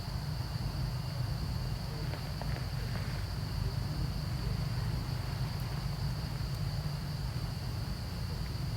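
A steady, unbroken high insect drone, as of crickets or cicadas, over a constant low rumble like wind on the microphone.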